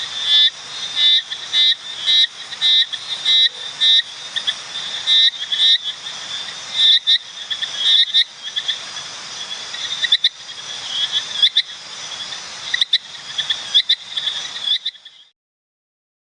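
A frog calling over and over in short, high croaks, about two a second at first and then more irregular, over a steady background hiss; it cuts off suddenly near the end.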